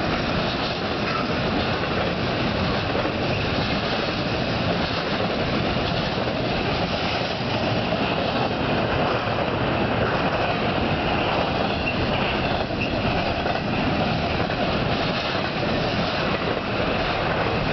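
Union Pacific intermodal freight train of double-stack container and piggyback trailer cars rolling past, its steel wheels running on the rails with a steady, unbroken noise.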